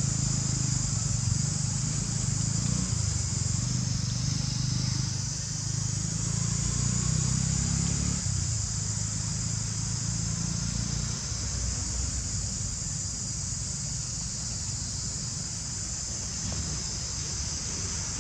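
Steady high-pitched insect buzzing, with a low motor rumble underneath that fades away about eight to eleven seconds in.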